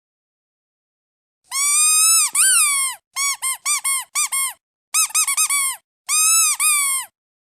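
Squeaky duck toy being squeezed: a long high squeak about a second and a half in, then a quick run of about six short squeaks, a faster flurry of squeaks, and a final long squeak ending near the end, each with dead silence between.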